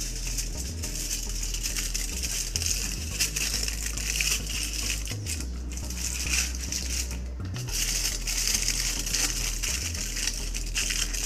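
Aluminium foil crinkling and crackling as hands fold and press it around a rolled flatbread, with two short pauses about five and a half and seven seconds in.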